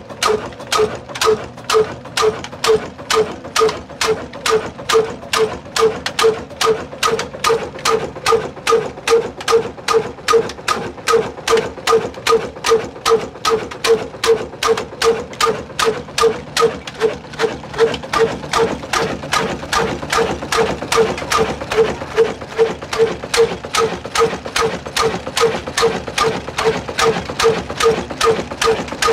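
Old heavy black diesel engine of the Ruston Hornsby type running at slow speed, with an even, regular beat of about two and a half firing strokes a second.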